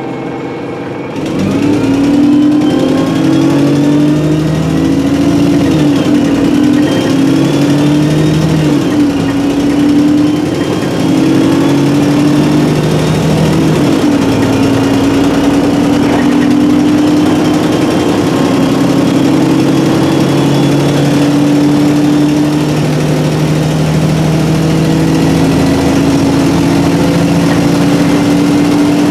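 Alexander Dennis Enviro300 bus on an ADL E30D chassis pulling away about a second in and accelerating up through its Voith four-speed automatic gearbox, the engine note rising and stepping down at each gear change, then settling into a steady cruise. A faint gearbox whine rises alongside, and the exhaust is blown, giving the engine a rasp.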